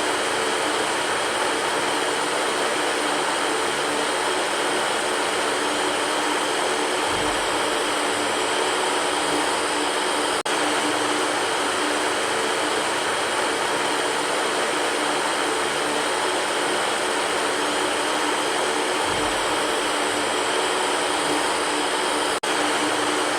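Electric fan running steadily, giving an even whoosh of air with a faint hum under it. It cuts out for an instant twice, about ten seconds in and again near the end.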